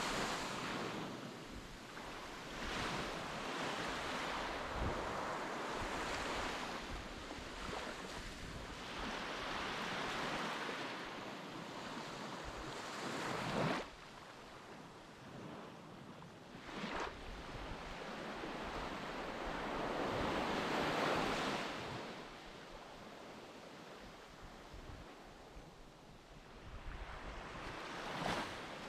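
Sea waves washing, with wind buffeting the microphone. The noise swells and fades every few seconds and drops away suddenly about halfway through.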